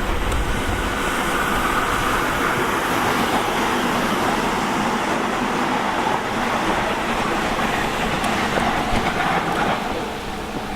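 Sydney electric suburban train passing through a station, its wheels on the rails and its motors making a steady noise that eases off about ten seconds in.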